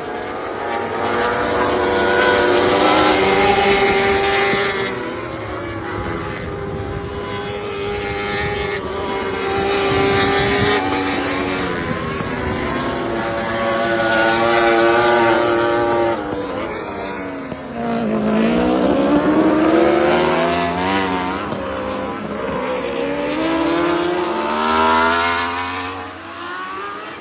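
Racing superbike engine at full throttle, its pitch climbing through each gear and dropping at the shifts, several times over. About 17 seconds in the pitch falls away sharply under braking and downshifts, then climbs hard again.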